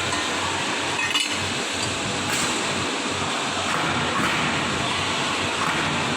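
Steady machinery noise in a metalworking shop, with a few light metallic clinks about one, two and a half, and four seconds in.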